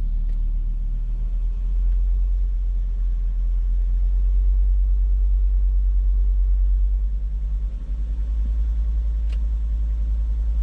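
Volvo V70's 2.4-litre non-turbo inline-five petrol engine running at raised revs, held slowly around 1,500 rpm. It is a steady low drone that swells a couple of seconds in and eases back a little near the end. The engine has an intermittent cylinder-1 misfire that shows up at about these revs.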